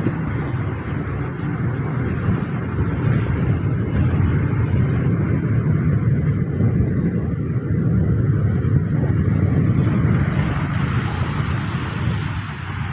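Steady rumble of a vehicle on the move, with wind on the microphone, swelling in the middle and easing near the end.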